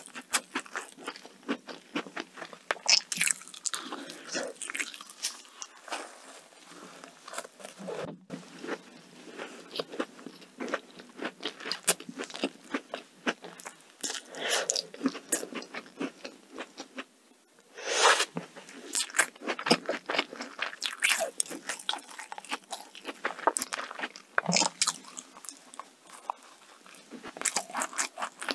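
Close-miked chewing of donut: a steady run of sticky, wet mouth clicks and crackly bites, one louder bite about two-thirds of the way through.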